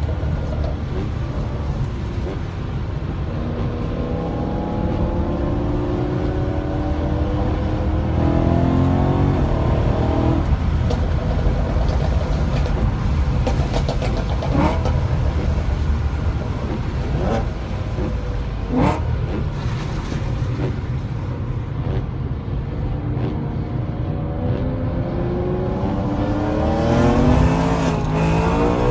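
2011 BMW E92 M3's 4.0-litre V8 heard from inside the cabin, rising in pitch as it accelerates and easing off between pulls, over a steady low rumble of tyres on a wet track. A couple of sharp clicks stand out in the middle.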